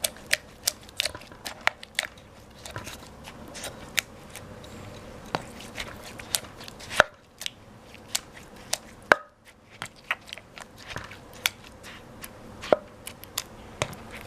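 Pestle pounding tomatoes in a mortar with the som tum ingredients, a run of sharp, irregular knocks about two a second with a couple of brief pauses.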